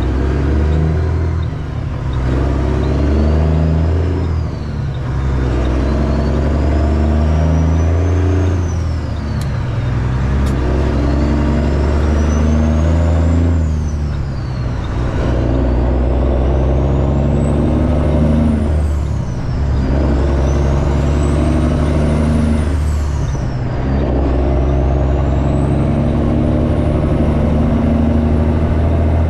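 Straight-piped semi truck's diesel engine pulling through the gears, its exhaust note climbing in each gear and dropping at each shift about every four to five seconds. A thin high turbocharger whistle rises with each pull and falls away at each shift.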